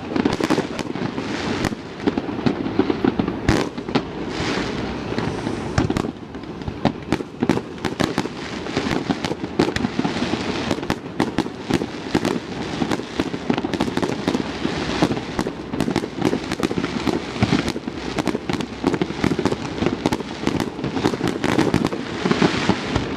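Fireworks display going off: many sharp bangs at irregular spacing, some close together, with crackling over a steady low rumble.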